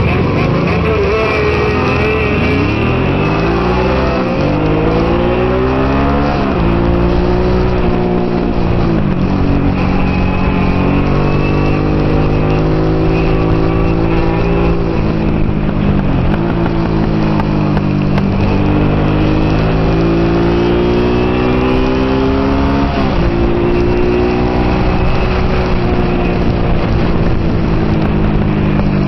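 Honda NT650 Hawk GT's V-twin pulling away from a standing race start and accelerating hard, the revs climbing and dropping back at each upshift every few seconds, then easing and pulling again through the corners, with wind rush over it.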